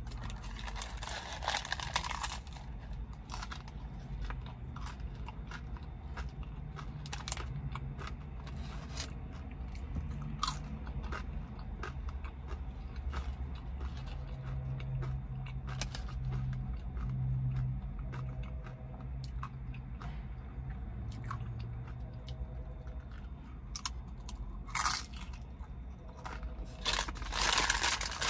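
Chewing and crunching of crispy fast food, a steady run of small wet crunches. Near the end the paper food sleeve rustles loudly as it is handled.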